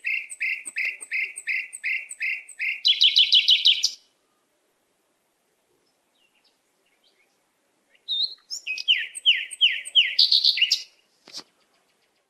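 Songbird singing: a clear, down-slurred note repeated about three times a second that speeds up into a quick trill, then, after a few seconds of silence, a second shorter phrase of the same notes.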